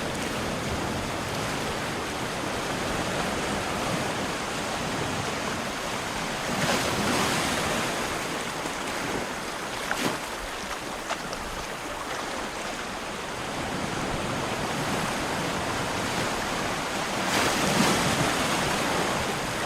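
Caspian Sea waves washing onto the shore in a steady rush, with a louder wave breaking about a third of the way in and another near the end.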